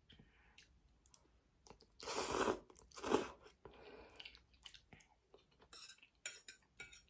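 A person chewing a mouthful of spaghetti, with wet mouth clicks and two louder, noisier chews about two and three seconds in.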